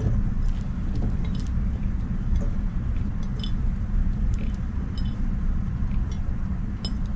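Blueberries dropped into a bowl on a kitchen scale, giving scattered light clicks and taps over a steady low rumble.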